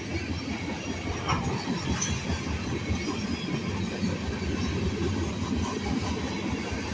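Freight cars of a long freight train rolling past, a steady low rumble of steel wheels on rail with a few light clicks.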